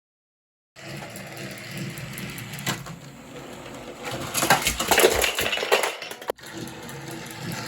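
Battery-powered toy train engine running, its motor and plastic gears whirring with a rattling clatter. The sound begins about a second in, grows louder past the middle, and cuts out for a moment near the end.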